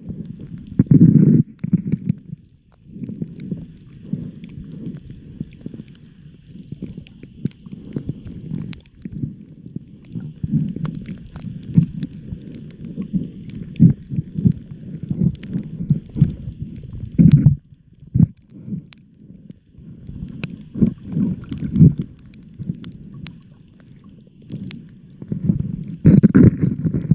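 Underwater sound: an uneven, muffled low rumbling and gurgling of moving water with scattered sharp clicks, swelling louder a few times.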